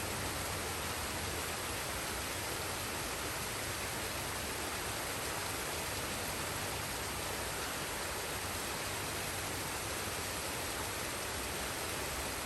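Forest waterfall and stream: a steady, even rush of falling water.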